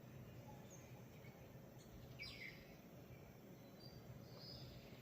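Near silence: faint outdoor background with a few brief, faint bird chirps, the clearest about two seconds in and another near the end.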